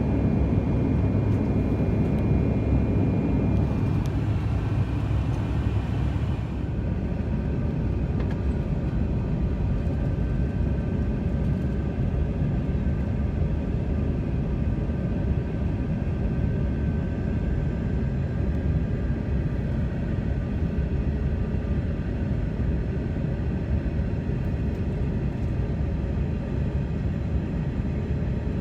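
Jet airliner cabin noise heard from inside the cabin: a steady rumble of engines and airflow with a few faint steady tones. It drops slightly in level and changes character about six seconds in.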